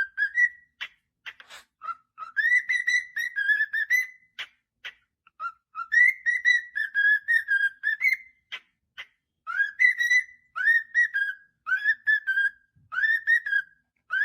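A parrot whistling a repeated phrase of short, clear notes that swoop up and level off, over and over, with a few sharp clicks in between.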